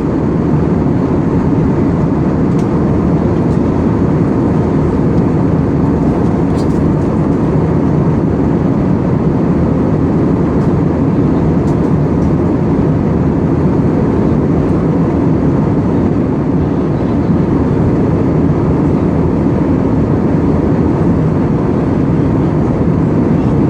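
Airplane cabin noise in flight: a steady, even low drone of engine and rushing air heard inside the cabin.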